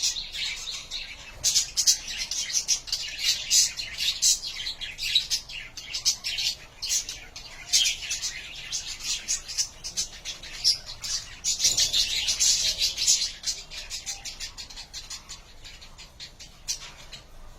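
Budgerigars chattering: a steady stream of quick, overlapping chirps that thins out a little near the end.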